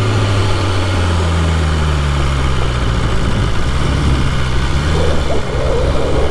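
BMW S1000RR inline-four engine running at low, steady revs while the bike climbs slowly, after an engine-control fault warning; the rider hears some noise from it he can't place and says the engine feels strange.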